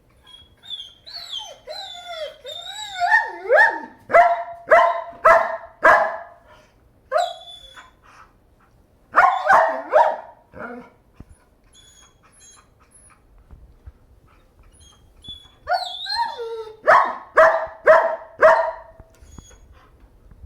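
German Shepherd dog whining in high, wavering tones, then barking in three quick runs of pitched barks with pauses between them, set off by being pointed at.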